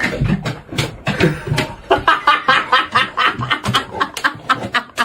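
A person laughing hard in a quick run of repeated bursts, several a second, with some clicks and knocks mixed in.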